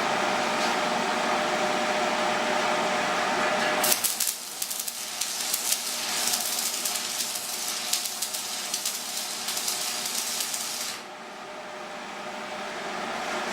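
A steady mechanical hum, then about four seconds in an electric welding arc crackling and hissing in rapid sharp pops for about seven seconds, as tack welds are laid on the steel spare tire carrier.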